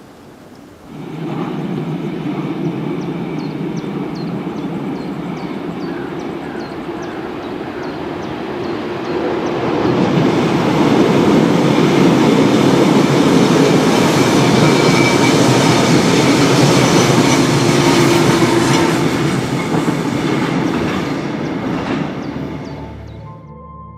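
ÖBB class 4744 Cityjet (Siemens Desiro ML) electric multiple unit passing by, its wheels clattering over the rails with a rattling from the running gear. The uploader takes the rattle for loosely hung components, not a fault. It comes in about a second in, gets louder about ten seconds in, and fades near the end.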